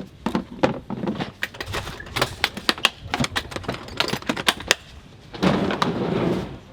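Tools and small hard items clicking and clattering irregularly as they are handled and packed. About a second of steady rough scraping noise follows near the end.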